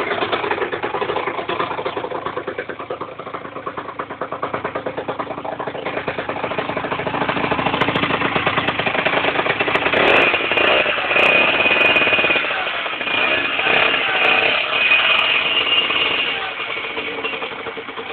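Yamaha TZR 50's two-stroke single-cylinder engine with a LeoVince aftermarket exhaust, running and being revved. It grows louder from about a third of the way in, with the pitch rising and falling through the middle, then eases back near the end.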